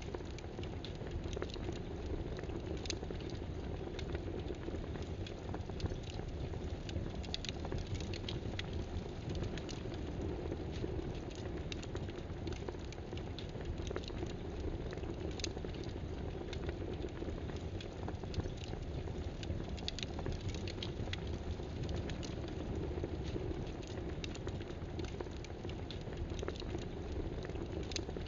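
Irregular clicks of keyboard typing over a steady hiss.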